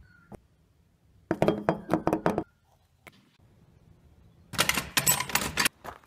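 Two bursts of rapid clattering knocks and clinks, each lasting about a second, the second coming about three seconds after the first.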